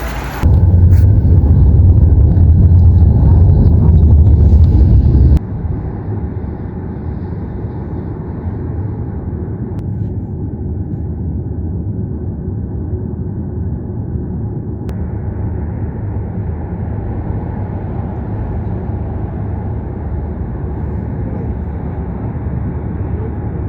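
Steady low rumble of a vehicle running, very loud for the first five seconds or so, then dropping suddenly to a lower, even level.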